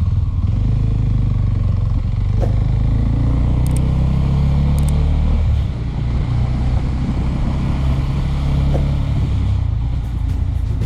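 Suzuki Thunder 250 motorcycle engine running under way, its pitch climbing a little and then dipping briefly about halfway through.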